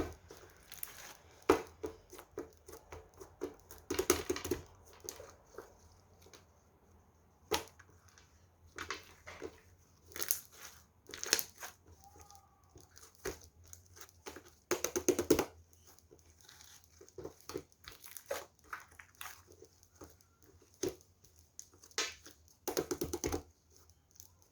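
Sparkly purple clear slime being squeezed and pressed by hand, giving irregular bursts of wet popping and crackling clicks, densest about four seconds in, around fifteen seconds in, and near the end.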